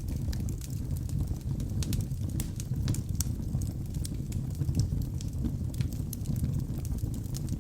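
Wood logs burning in a fireplace: a steady low rumble of flames with frequent sharp crackles and pops scattered throughout.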